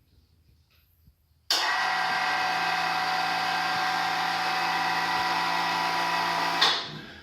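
The hoist's motor runs steadily with an even whine, lowering the hoist. It starts suddenly about a second and a half in and stops abruptly about five seconds later.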